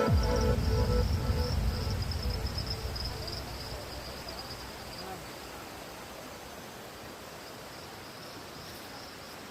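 Insects buzzing steadily at a high pitch over a faint wash of noise, with a low rumble fading away over the first five seconds.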